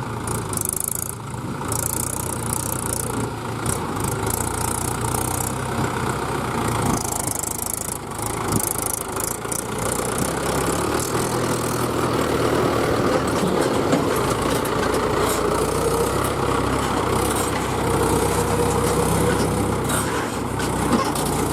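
Tractor's diesel engine running steadily, growing somewhat louder from about halfway through.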